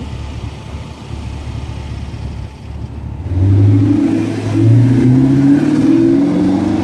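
Low rumble of a Mercedes CL500's V8 idling. About three seconds in, a much louder Audi R8 engine comes in as the car pulls away, its pitch rising, dipping and rising again.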